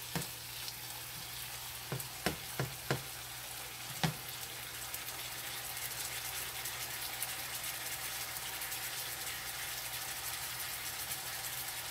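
Cut-up chicken thigh pieces sizzling steadily in a frying pan, with a few short light knocks in the first four seconds.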